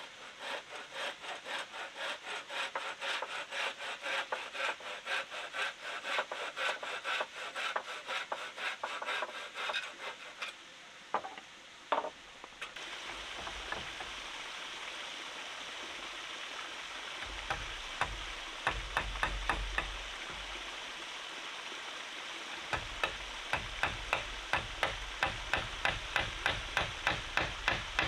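A hand tool working wood in quick, regular rubbing strokes, about two or three a second. The strokes break off about eleven seconds in and start again near the end, with a low rumble in between.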